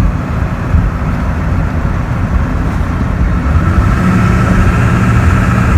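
Vehicle driving, heard from inside the cabin: a steady road-and-engine rumble, with a steady hum coming in about four seconds in.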